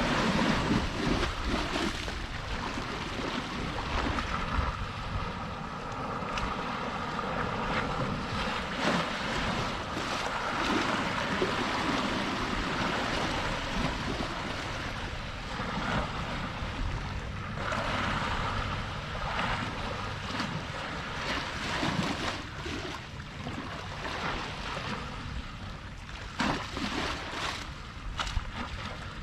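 Sea waves washing and splashing, rising and falling in slow swells, with wind blowing on the microphone.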